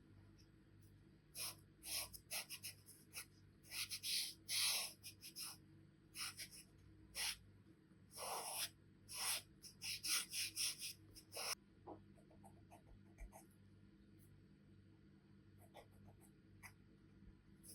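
Charcoal pencil strokes scratching on drawing paper in quick short bursts, densest through the first two-thirds, then thinning to faint light taps and strokes.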